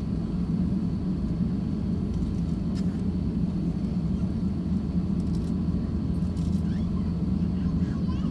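Steady low rumble of an Airbus A350-1000 taxiing, its Rolls-Royce Trent XWB engines at low thrust, at an even level throughout.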